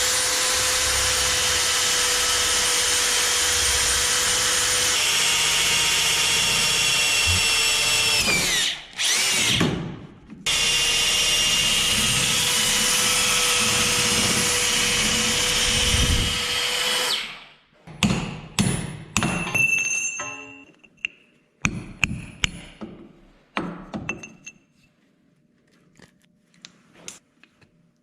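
Power drill running steadily, boring out the broken handle stub in a hammer head. It winds down about eight seconds in, starts again two seconds later, and stops for good about seventeen seconds in. A series of sharp knocks follows.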